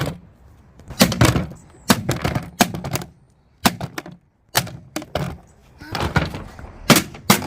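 Repeated hard knocks and cracks on the plastic body of a Henry vacuum cleaner as it is struck and broken apart: about a dozen irregular blows, with a short pause midway.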